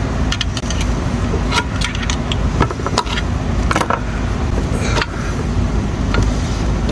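Scattered sharp metallic clicks and clinks of steel transmission parts and tools being handled, over a steady low rumble.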